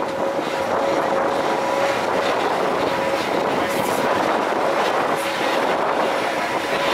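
Montenvers electric rack railway train running, heard from an open carriage window: a steady rumble of wheels and running gear with a faint steady whine and a few light clicks.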